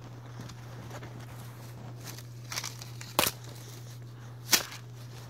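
A few sharp clicks or taps over a steady low hum: faint ones about two seconds in, a stronger one past three seconds, and the loudest a little after four and a half seconds.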